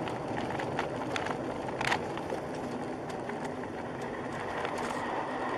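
Steady noise of a car driving, with scattered light clicks and one sharper click about two seconds in.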